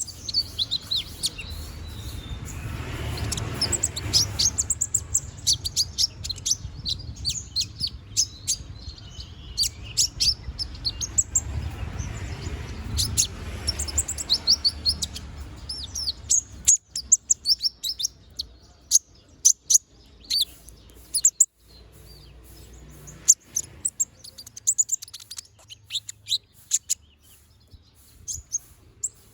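A konin (brown-throated sunbird) singing energetically: a fast, continuous stream of high, sharp chirps and twitters, densest in the first half and more scattered later. A low rumbling noise rises under the song twice.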